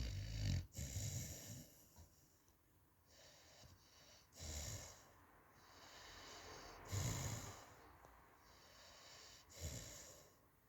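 A sleeping dog snoring: four snores about two and a half seconds apart, with quieter breathing in between.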